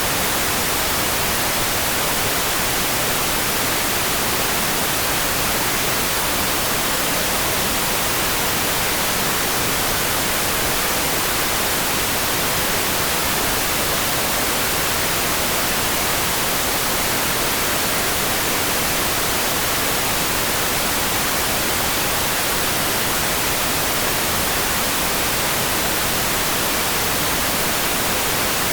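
Steady, even hiss of a rain-for-sleep noise track, with no separate drops, thunder or changes. It is strongest in the high end.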